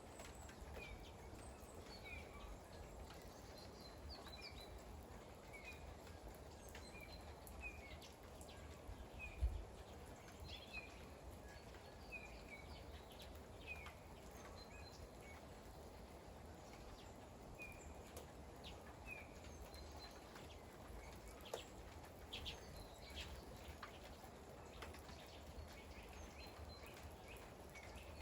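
A bird chirping faintly over and over, a short call every second or so, over a steady low outdoor background noise. One low thump about nine and a half seconds in.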